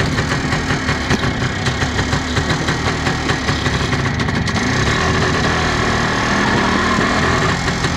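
1962 MZ 250cc single-cylinder two-stroke motorcycle engine running steadily at low revs as the sidecar outfit rolls slowly, with a steadier note setting in about halfway through.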